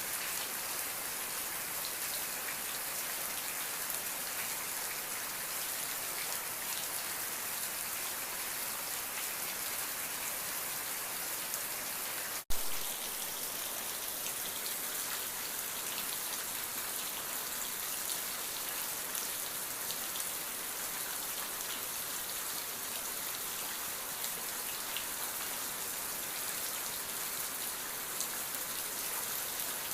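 Steady rain falling on a surface, an even hiss with many small drop ticks. About halfway through, the sound cuts out for an instant with a single sharp click.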